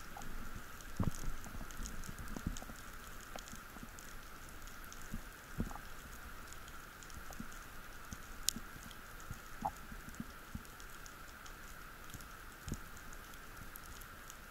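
Underwater ambience: scattered crackling clicks over a steady background hiss, with a few low knocks, louder in the first few seconds.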